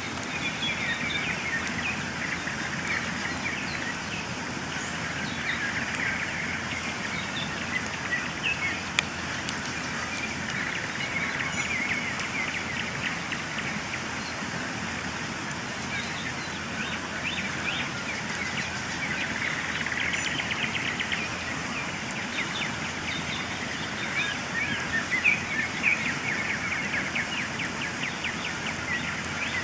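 Wood campfire crackling, with scattered sharp pops, the loudest about nine seconds in and a few more near twenty-five seconds. Many birds sing and chirp steadily over the fire in a dawn chorus.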